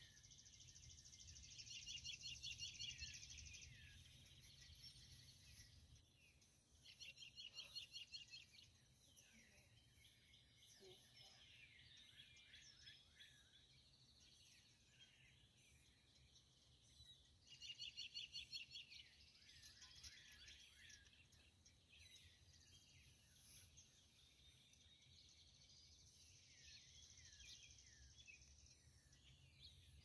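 Birds singing outside: trilled, pulsing songs that come in bursts of one to three seconds, with softer chirps between them. A few sharp clicks about twenty seconds in are the loudest sounds.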